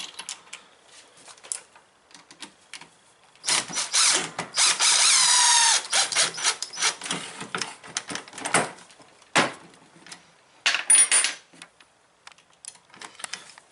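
Metal clicks, clinks and scraping as scooter headset parts, the bearings and fork, are handled and fitted together by hand. About three and a half seconds in comes a louder sustained scraping stretch of a couple of seconds with a falling whine, and a short loud clatter near the end.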